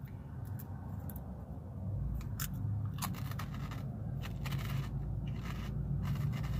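Crunching and chewing of baked shrimp chips close to the mouth: a series of short, crisp crackles, thicker in the second half, over the low steady hum of a car cabin.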